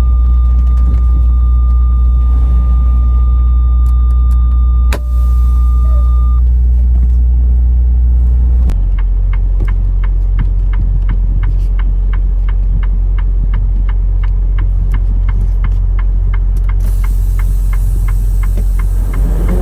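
Semi truck's diesel engine running, heard from inside the cab as a loud, steady low rumble. A steady high tone sounds over it for the first six seconds or so. From about nine seconds in, a regular ticking of a few ticks a second comes in.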